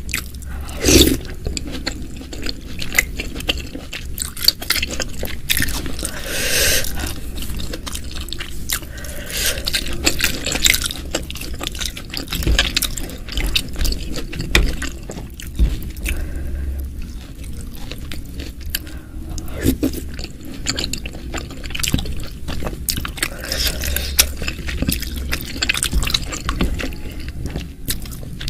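Close-miked eating sounds: wet chewing of chewy kikil (beef skin) and bakso meatballs in spicy broth, with a wooden spoon scraping in the bowl. Many short sharp clicks and wet smacks follow one another.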